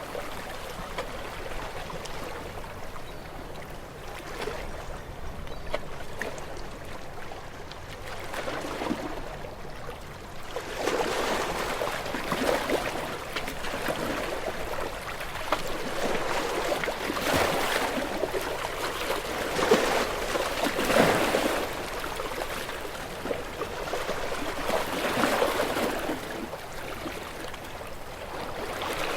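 Gentle sea waves washing onto the shore, the wash of water swelling and fading in uneven surges, loudest a little past the middle.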